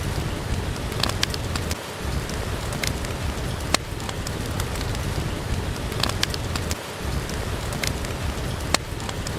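Steady rain falling, a continuous even hiss, with a fireplace's wood fire giving occasional sharp crackles and pops, about eight scattered through it.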